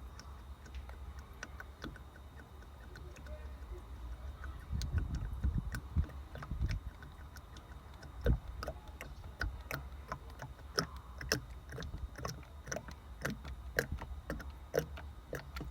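Engine oil being poured from a plastic jug into the engine's filler, with irregular clicks and crackles from the jug that come thicker in the second half. There are low handling bumps about five to seven seconds in.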